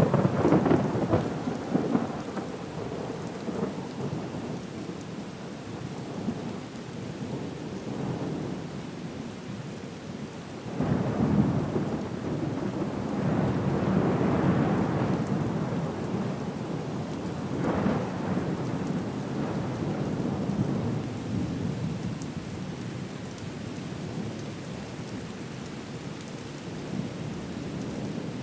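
Thunderstorm soundscape: steady rain with rolling rumbles of thunder, strongest at the start, again from about 11 seconds in, and once more near 18 seconds.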